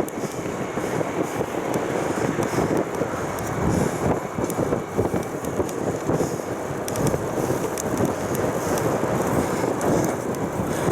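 Crosswind buffeting the microphone on a moving bicycle: a continuous low rushing noise that swells and dips unevenly.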